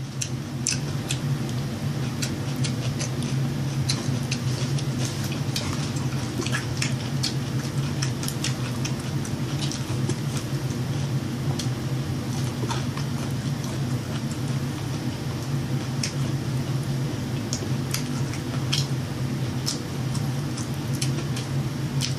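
Close-up eating sounds from a fried-chicken mukbang: irregular wet mouth clicks and smacks while chewing, over a steady low hum.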